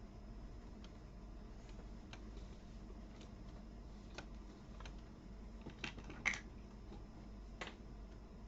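Scattered small clicks and taps of plastic toy building pieces being handled and pressed together, the loudest pair a little after six seconds in, over a faint low hum.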